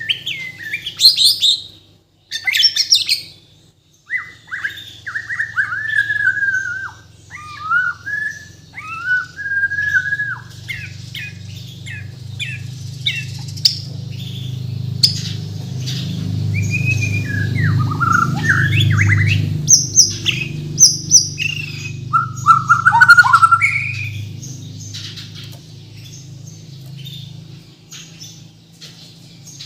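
Bornean shama (murai batu) singing a long, varied song of whistled phrases, sliding notes and quick chirps, with phrases mimicked from other birds worked in. A low steady hum runs underneath and swells in the middle.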